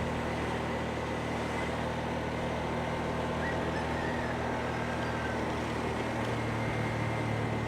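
Motorbike engine running at a steady speed while riding, with road and wind noise.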